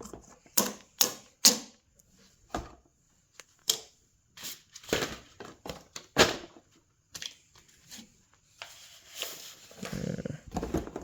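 Irregular knocks, clicks and thumps of objects being handled and carried, a dozen or so sharp strikes spaced unevenly, with a longer rustling clatter near the end.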